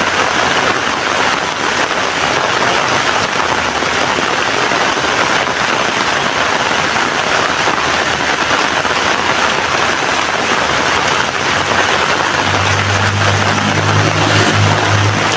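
Heavy rain falling steadily. About twelve seconds in, a low vehicle engine hum joins it and runs to the end.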